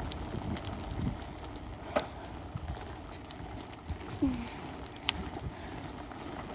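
Bicycle being ridden, heard from a phone taped to the handlebars: a steady rumble of tyres and rattling bike, with a couple of sharp clicks about two and five seconds in.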